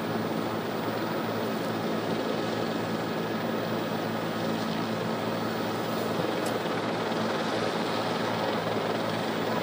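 Steady aircraft noise: a continuous rushing sound with a low steady hum underneath, without a break.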